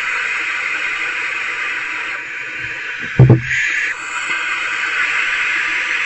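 Barn owlets giving their steady hissing, snore-like begging calls. A little past the middle come two loud thumps, followed by a brief, louder burst of hissing.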